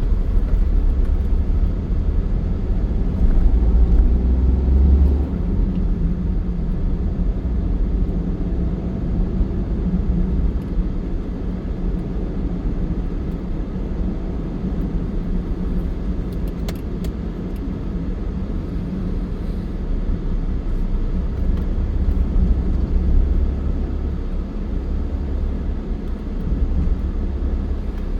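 Steady low vehicle rumble with road noise, swelling and easing a couple of times.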